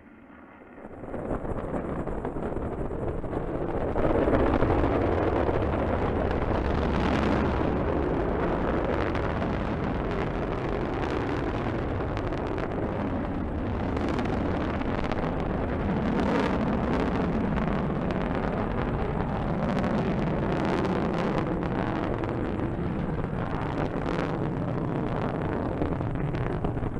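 Rocket launch roar: the engines' dense, crackling rumble builds about a second in and grows louder about four seconds in, then holds steady.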